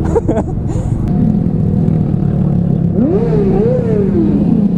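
Honda Grom 125 cc single-cylinder motorcycle engine running steadily on the move, with a brief tone that rises and falls about three seconds in.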